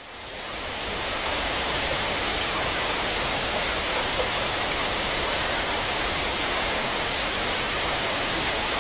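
Steady rushing noise of heavy rain and floodwater, fading in over the first second and then holding even.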